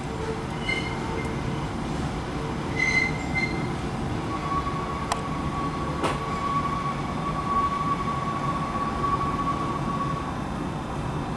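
Hakone Tozan Railway electric train rolling slowly through a curve and over points with a steady low rumble, its wheels squealing in a long steady high tone from about four seconds in until near the end. A couple of sharp clicks from the wheels crossing rail joints come around the middle.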